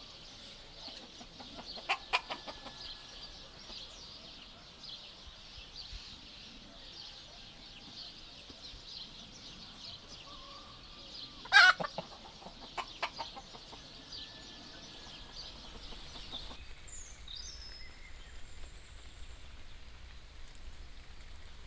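Farm soundscape: a steady high insect chorus with a few short bird calls, the loudest a sharp call about halfway through. About three-quarters of the way in, the chorus stops and a low hum remains.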